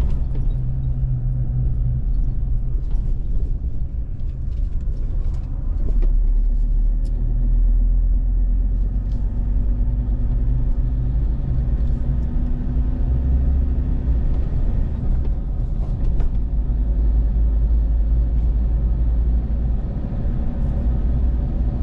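Steady low rumble of a car being driven along a road, engine and road noise together. The engine note rises a little around the middle.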